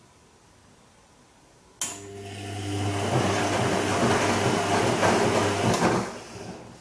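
Bosch Serie 2 washing machine turning its drum in the Silk delicates programme. The motor cuts in with a click about two seconds in, builds up over a second, runs with a steady hum for about three seconds, then slows and stops near the end.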